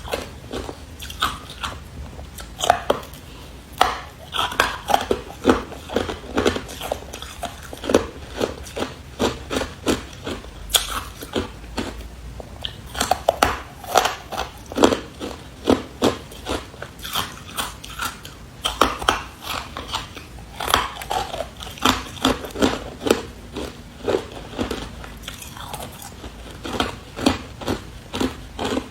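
A person biting and chewing hard carbonated ice, with sharp crunching cracks coming in quick, irregular runs of several a second.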